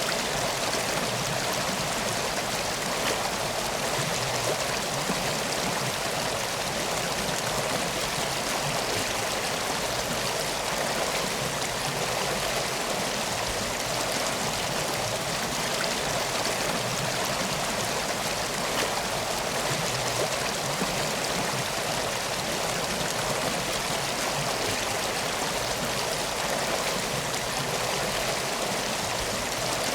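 Steady, even rushing of flowing water, like a river or stream, unchanging throughout.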